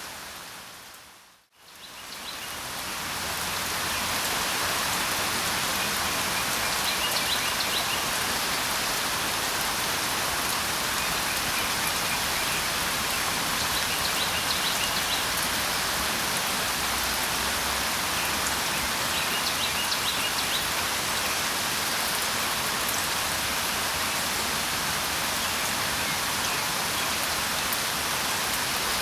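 Steady rain falling, an even hiss, with a few faint bird chirps now and then. The rain fades out to near silence about a second and a half in and swells back up over the next couple of seconds.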